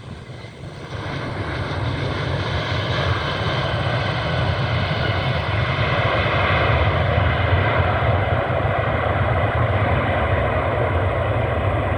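Jet engines of an arriving Boeing 737-700, its CFM56-7B turbofans, passing close. The sound grows louder over the first few seconds, then holds steady and loud, with a whine of several steady tones above a low rumble.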